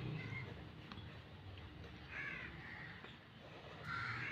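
A bird calling in short calls, three times: near the start, about two seconds in and near the end.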